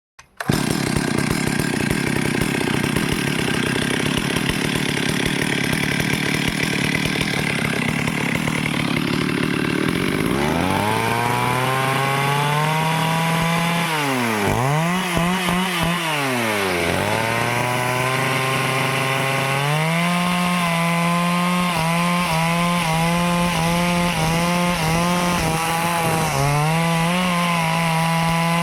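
Stihl two-stroke chainsaw cutting through teak wood, at first a rough, noisy bite into the wood. About ten seconds in, the engine note rises clear of the cut, falls and climbs again twice, then runs at high speed with frequent brief dips in pitch.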